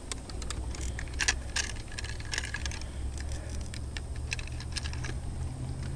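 Irregular light clicks and rattles of small gear being handled in a boat while a caught bass is readied for weighing on a fish scale, over a low steady hum.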